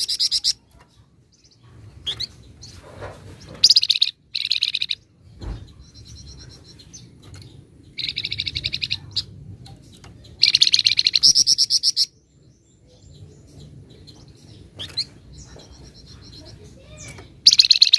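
Flamboyan songbird singing in bursts of fast, rattling trills, each lasting about a second, separated by pauses. Between the bursts come thinner, high whistled notes.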